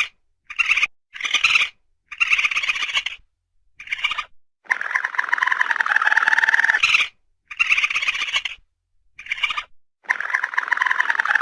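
Raccoon calls: a string of about nine trilling calls, most of them short, with longer ones in the middle and near the end.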